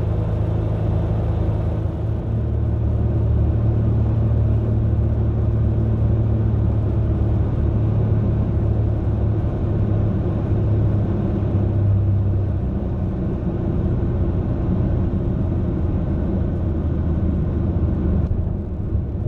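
Zenith 601's air-cooled Corvair flat-six aircraft engine and propeller droning steadily inside the cockpit. The note shifts about 2 seconds in and again about 12 seconds in as the power changes.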